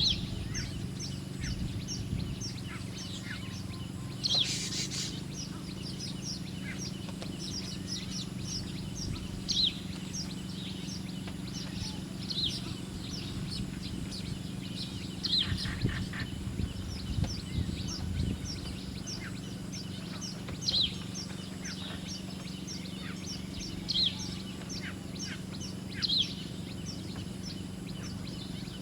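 Small songbirds chirping: a fast, steady run of short, high, down-slurred chirps, with a louder chirp every two to three seconds. A brief rushing noise comes about four seconds in, over a steady low hum.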